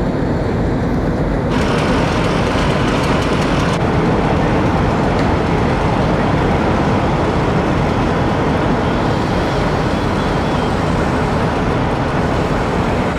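Steady, loud rumble of heavy engines running, with a hiss rising over it for about two seconds near the start.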